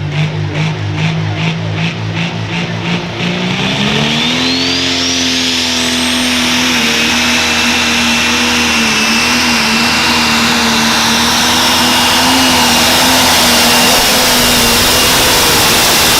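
Turbocharged pro stock pulling-tractor engine: a lumpy, pulsing low note at first, then about four seconds in it revs up and holds at high rpm. A turbo whistle rises in pitch and then settles into a steady high whine as the noise builds.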